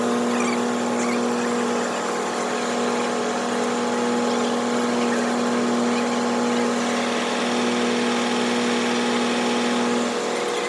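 A car driving at a steady speed, heard from inside the cabin: engine and road noise with a steady hum that drops away about ten seconds in.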